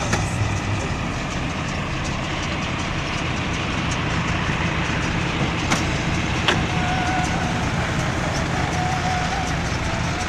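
Tractor engine running steadily under load while working a baler, with two sharp knocks a little past the middle and a thin whistling tone in the last few seconds.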